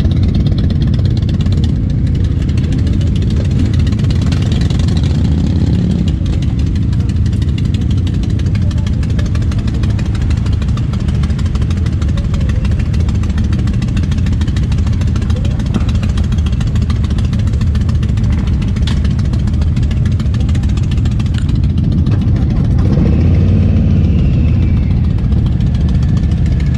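Motorcycle engines idling and running, a steady low rumble that swells slightly about 23 seconds in.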